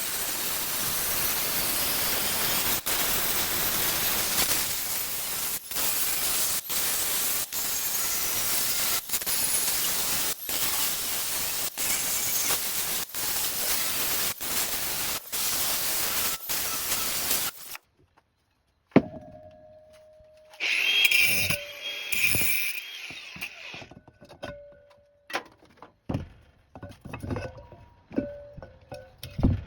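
A power tool cutting steadily through metal for about eighteen seconds, its noise dipping briefly about once a second. It then stops, and scattered clinks and knocks of metal scrap being handled follow.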